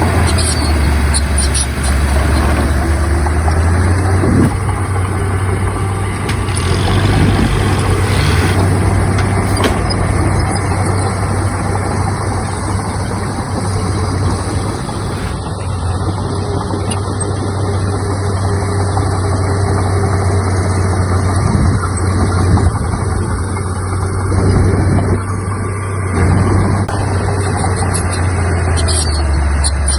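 Heavy diesel engine of earthmoving machinery running under steady work: a deep, loud drone with small rises and falls.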